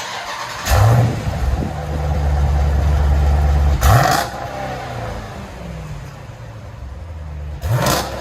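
Jeep Grand Cherokee SRT's 6.4-litre HEMI V8 through an AWE Touring cat-back exhaust with the factory resonators kept: the engine fires up about a second in and holds a fast, steady idle, then is blipped sharply twice, about four seconds in and near the end.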